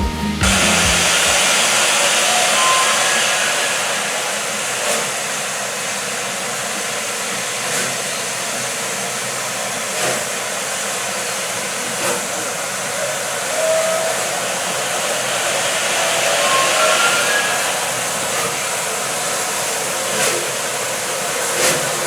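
Steady hiss of a steam locomotive letting off steam, with a few faint clicks over it.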